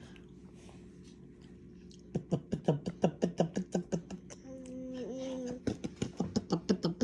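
A toddler making rapid repeated mouth sounds, about four a second, with a short hummed note in the middle.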